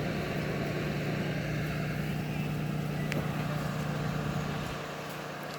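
Steady drone of a vehicle on the move: a low engine hum with road noise, easing off slightly near the end.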